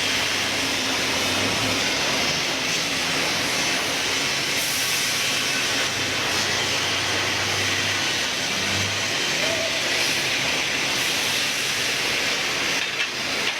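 Volvo truck running, heard as a steady hiss with a faint low hum underneath.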